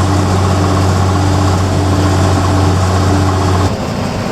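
Diesel engine and drivetrain of an AM General 5-ton 6x6 army truck running at a steady cruise, a loud low drone with road noise inside the cab. The drone drops off abruptly near the end.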